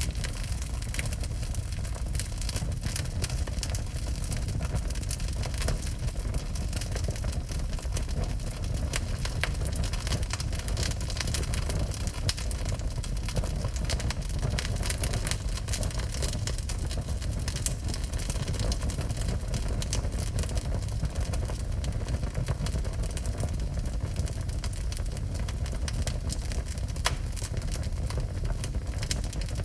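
Wood fire burning in a fireplace: a steady low rumble with frequent sharp crackles and pops scattered through it.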